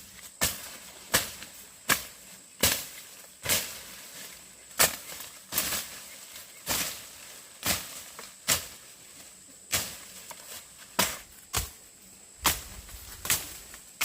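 Repeated sharp strikes at an uneven pace of about one a second, each a short hard knock.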